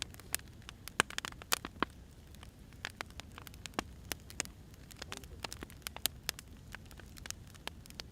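Wood fire crackling: burning logs give off irregular sharp pops and snaps, some louder than others, over a low steady rumble of flame.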